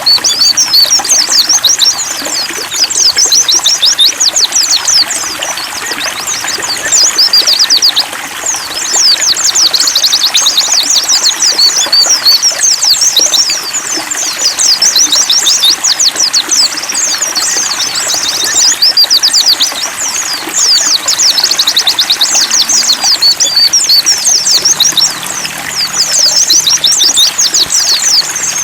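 A group of white-eyes (pleci) singing rapid, high twittering phrases in long runs with brief pauses, over trickling water.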